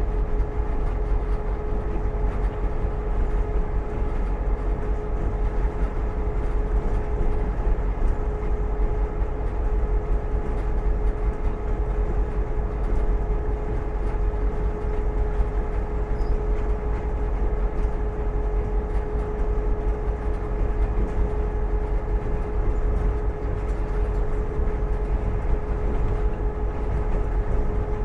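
Inside the cab of a GP38-2 diesel locomotive: the EMD 16-645 V16 two-stroke prime mover running steadily, a constant low rumble with a steady whine over it.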